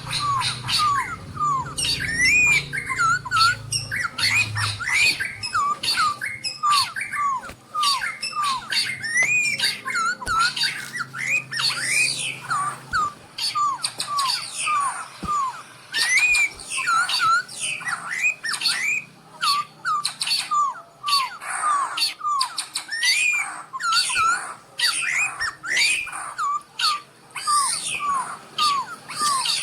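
Birds calling continuously: many short, hooked chirps and squawks, several a second, overlapping throughout.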